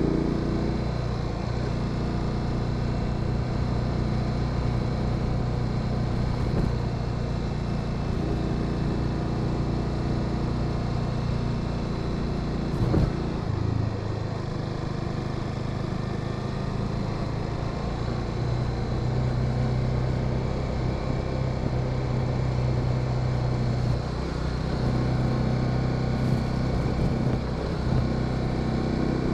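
Motorcycle engine running under way. The engine note is steady, then shifts about halfway through with a brief knock, and holds at a new pitch.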